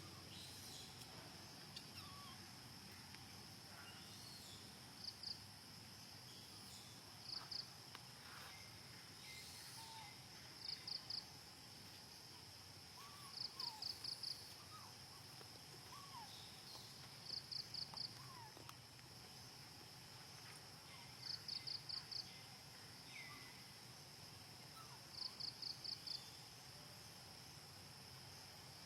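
Insects chirping: a steady high-pitched drone, with a quick burst of two to five chirps about every four seconds. Faint short bird calls sound now and then underneath.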